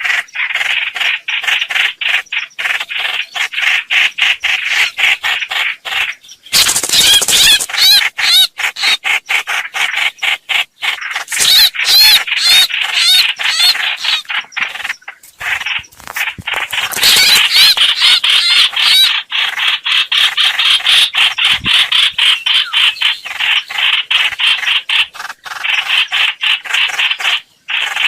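Lure-call recording of the hoành hoạch bird: a long, fast run of rapidly repeated harsh notes, broken three times by louder phrases whose pitch wavers quickly.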